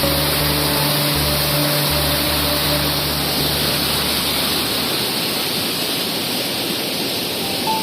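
Loud, steady rushing of running water, like a stream or small waterfall, with soft background music underneath that fades out about halfway through.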